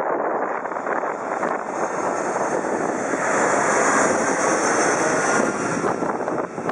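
Jet airliner passing low overhead. Its engine roar swells to a peak about four seconds in, then eases off.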